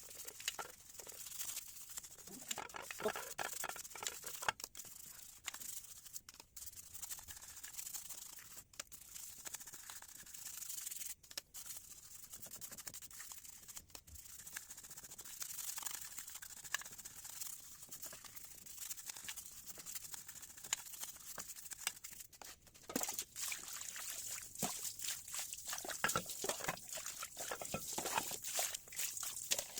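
Scrubbing engine parts to clear scale: scratchy rubbing strokes, quick and irregular, going on continuously.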